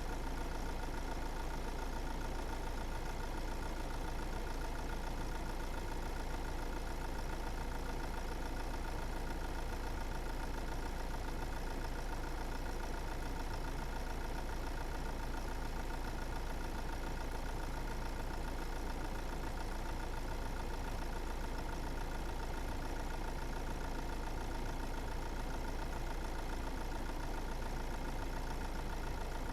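Steady car engine and road noise while driving, unchanging throughout.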